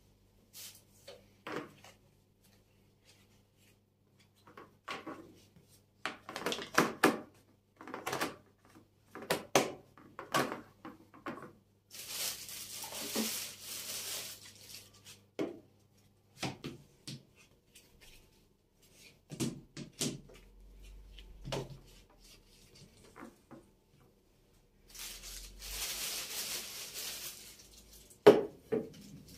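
Household items being handled in a pantry cupboard: scattered light knocks and clatter of containers being picked up and set down, with two stretches of rustling noise of a couple of seconds each, one near the middle and one near the end, and a sharp knock just before the end.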